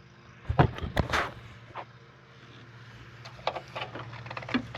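Scattered hard plastic clicks and knocks as a headlight bulb socket and lamp housing are handled and fitted, the loudest about a second in, over a steady low hum.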